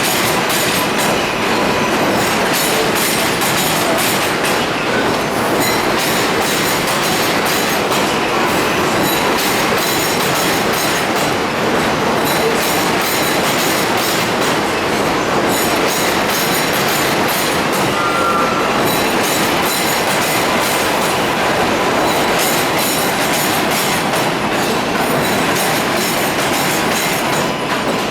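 R188 subway train on the 7 line running through an elevated station, its wheels clattering over the rail joints, with a faint steady squeal.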